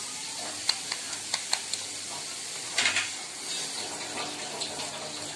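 Grated carrots sizzling in ghee in a nonstick kadai while a wooden spatula stirs them, with a few sharp taps of the spatula on the pan in the first couple of seconds and a louder scrape about three seconds in.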